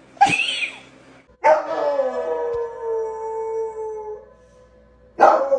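A dog howling: a short sharp call, then a long drawn-out howl of nearly three seconds that sinks slowly in pitch, and a second long howl beginning near the end.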